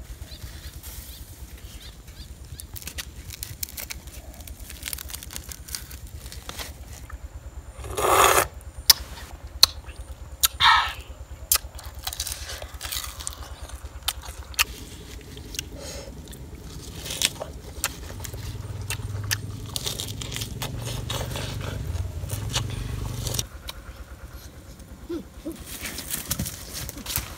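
Close-up eating sounds: chewing and lip-smacking on grilled fish, a steady patter of small clicks. Two louder sudden noises stand out about eight and eleven seconds in.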